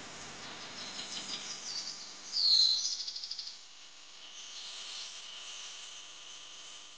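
Small birds chirping, with one louder chirp about two and a half seconds in followed by a quick run of rapid ticks.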